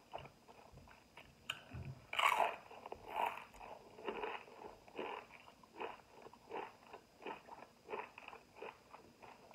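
A person biting into a crisp chip, loudest about two seconds in, then chewing it steadily at about two to three chews a second.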